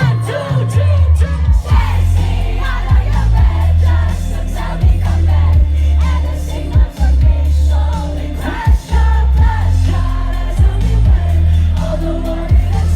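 Live pop song played loud through a concert PA: a heavy, pulsing bass line and drums under a sung lead vocal.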